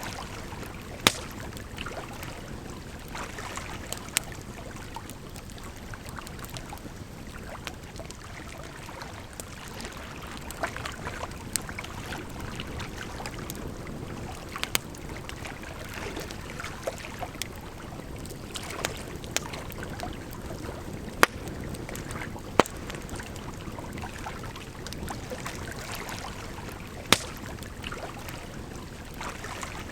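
Wood campfire crackling, with sharp pops at irregular intervals, over a steady rush of flowing water.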